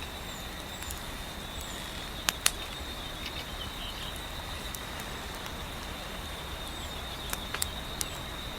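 Wood fire crackling, with a few sharp pops about two seconds in and a cluster near the end, over a steady hiss of gentle wind and a constant high, thin tone.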